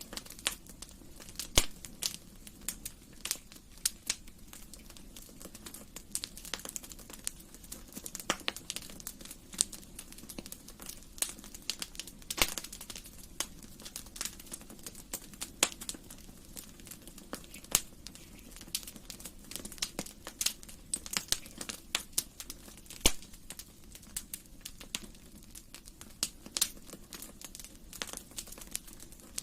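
Wood fire burning in a fireplace: irregular sharp crackles and pops over a low steady hiss.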